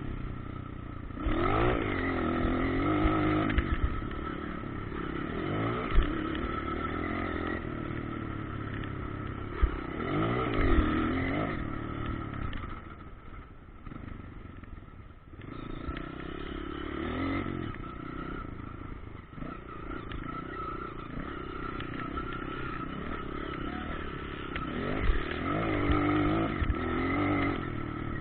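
Motocross bikes running on a dirt track, their engines revving up and falling back over and over as they accelerate and shift, with a quieter spell about halfway through.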